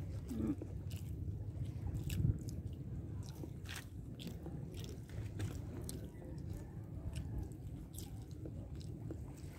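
Close chewing and mouth sounds of people eating chicken adobo and rice by hand, with scattered soft clicks and smacks over a steady low rumble.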